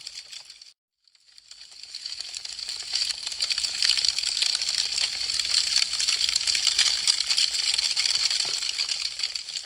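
Burning wood crackling, a dense stream of small sharp crackles and pops. Under a second in it fades out to a brief silence, then swells back up over about two seconds.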